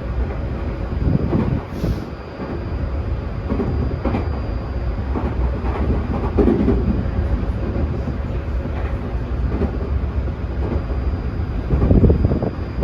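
Tokyu 2020 series commuter train heard from on board, running at steady speed: a continuous wheel-on-rail rumble with a faint steady high whine, and several heavier thumps over rail joints, the strongest near the end.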